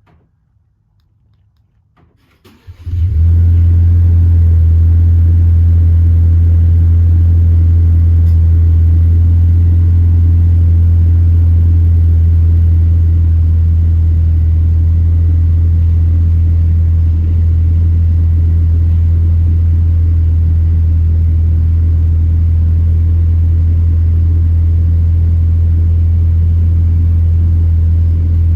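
A 2022 Ford Ranger's engine starts about two and a half seconds in, then runs at a steady high idle, its exhaust note coming through a newly fitted Borla muffler; the sound eases slightly around halfway.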